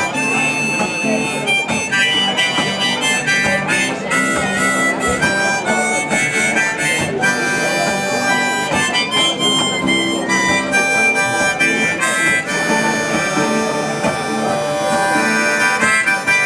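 Harmonica playing a melodic instrumental break over guitar accompaniment.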